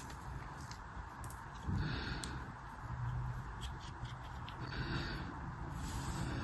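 Hands unpacking and handling items: small clicks and brief scratchy rustles, three of them standing out, over a low steady hum.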